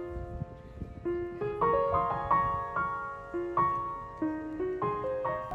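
Background piano music: gentle runs of single notes, each struck and left to ring, over a low rumble.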